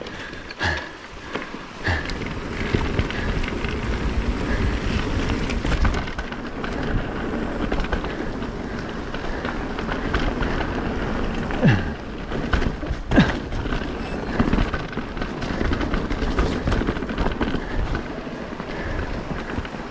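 Norco Range VLT mountain bike descending a rough dirt trail: a steady rush of tyre and trail noise with the bike rattling, broken by a few sharp knocks from hits on roots and rocks.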